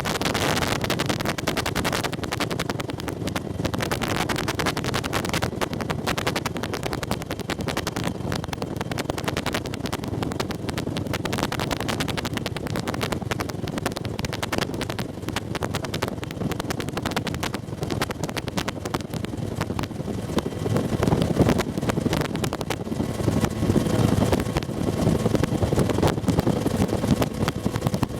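Bell UH-1 Huey helicopter in flight, heard from inside the cabin: continuous turbine and rotor noise. It grows louder about twenty seconds in.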